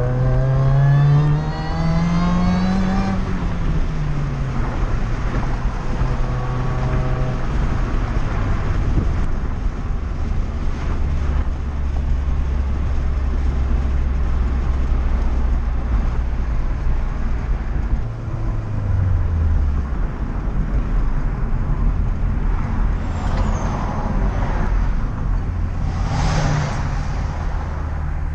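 Chevrolet Cobalt engine and road noise heard from inside the cabin while driving. The revs climb through the first three seconds, then fall and settle into a steady drone, and drop again about two-thirds of the way through as the car slows. Two brief hissing bursts come near the end.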